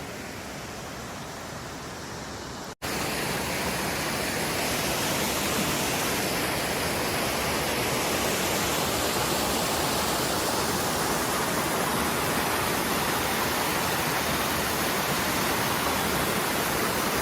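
Small mountain waterfall rushing steadily. The sound cuts out for an instant about three seconds in and comes back louder.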